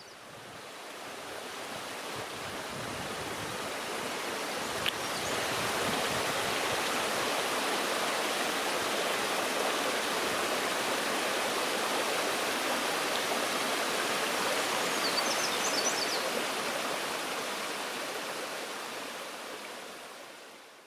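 Stream water rushing steadily, swelling in over the first few seconds and fading out at the end. A few faint, short, high bird chirps come through about two-thirds of the way in.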